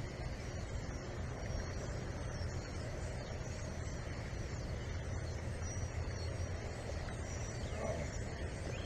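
Steady low wind rumble on the microphone, with a few faint, high, short chirps.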